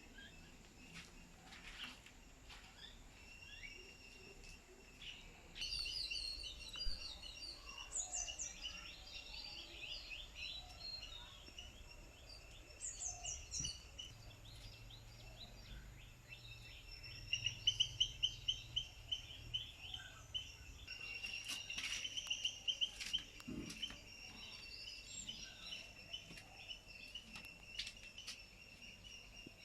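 Birds chirping and calling over a steady high-pitched tone, with a quick run of light taps about halfway through.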